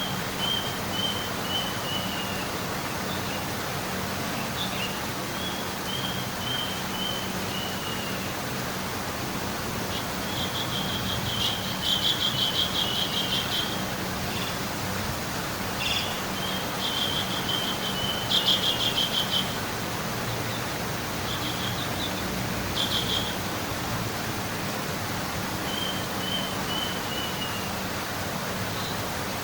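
Birds singing: short phrases of several quick chirps stepping down in pitch, repeated every few seconds, over a steady background hiss.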